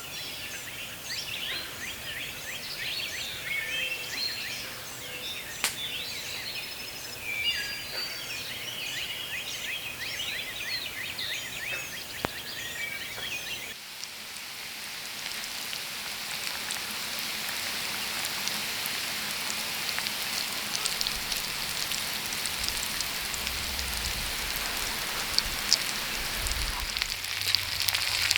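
Birds chirping and calling over a light outdoor hiss for the first half. Then, from about halfway, breaded black crappie frying in olive oil: a steady crackling sizzle that grows gradually louder.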